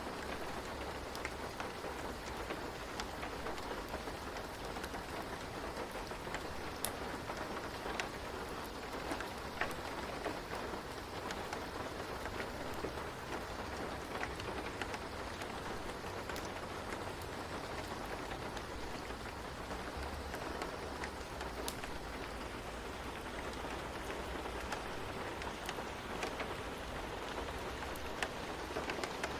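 Steady rain falling on a surface, with scattered single drops ticking sharply against the even hiss.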